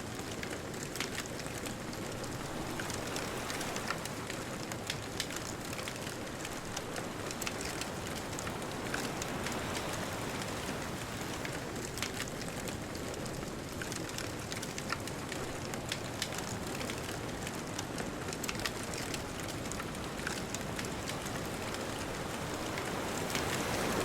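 Wood bonfire crackling, with many small sharp pops scattered irregularly, over a steady rush of distant ocean surf.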